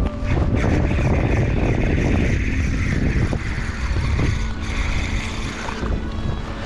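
Strong storm wind buffeting the microphone: a constant heavy low rumble with a rushing hiss above it.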